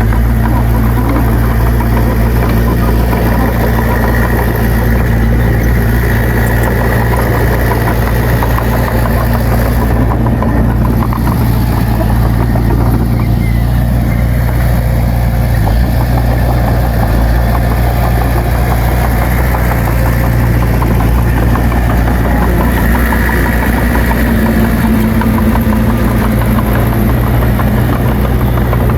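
Loud diesel engine of heavy earthmoving machinery running steadily, its pitch holding level throughout.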